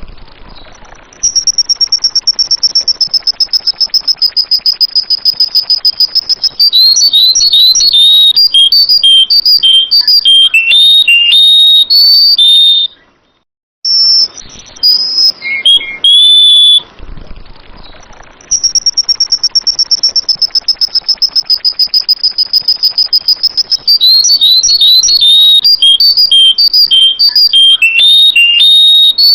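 Sooty-headed bulbul (kutilang) song recording played very loud: a fast, even high trill lasting about five seconds, then a run of varied quick chirps and whistles. After a brief break the same sequence repeats, as in a looped training track for caged birds.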